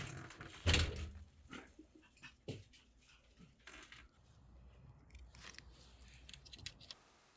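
Scattered knocks, clicks and rustling of someone moving about and handling things, the loudest knock about a second in, dying away near the end.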